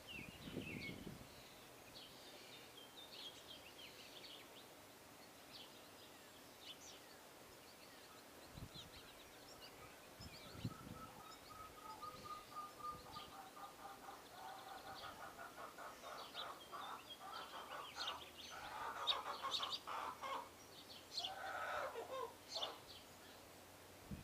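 Birds calling at a feeder: short high chirps throughout, a run of rapid pulsed calls through the middle, and a falling call near the end.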